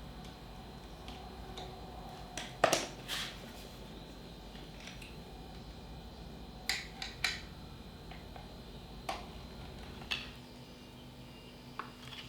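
Irregular light knocks and clicks, a few at a time with pauses between, over a steady low background; the sharpest pair comes about two and a half seconds in.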